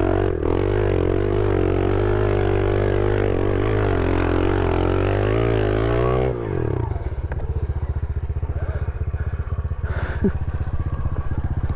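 Small pit bike engine held at high revs, pitch wavering as it labours up a hill climb. About six seconds in the revs drop sharply and it settles into a low, pulsing run. The bike is short of power for the climb.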